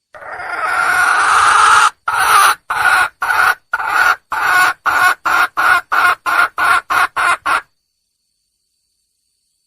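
Junglefowl hen calling: one drawn-out, swelling note of about two seconds, then a run of about fourteen short clucks that come faster and shorter before stopping abruptly. It is the wild hen's call to attract a male.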